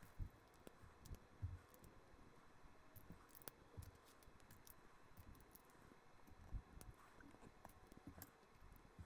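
Faint, scattered clicks and soft knocks of LEGO bricks being handled and pressed together.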